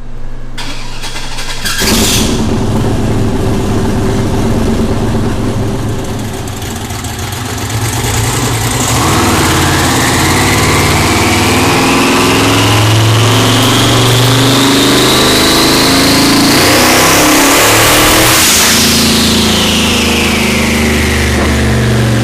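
Twin-turbo Gen V Camaro engine firing up about two seconds in and running with a steady rumble. From about nine seconds a high whine climbs steadily in pitch for about nine seconds, then falls away quickly.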